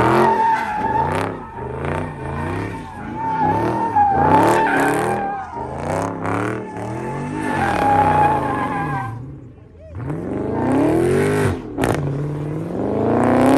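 A car doing a burnout or donuts: its engine revs up and down over and over while the tyres squeal steadily. About ten seconds in it eases off briefly, then revs up again in a long rise.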